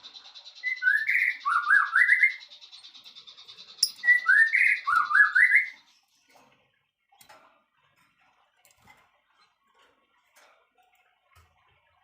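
A songbird sings the same phrase twice, a few seconds apart. Each phrase is about a second and a half of quick whistled notes that slide down and then climb in steps. A steady high buzzing trill runs under the first half and stops about halfway through, leaving only faint ticks.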